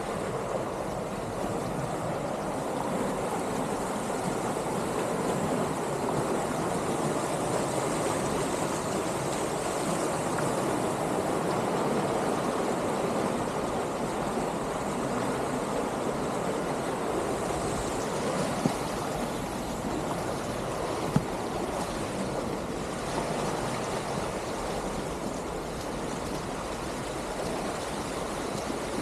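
Whaleshead Creek rushing steadily, running high after heavy rain. Two short clicks sound about two-thirds of the way through.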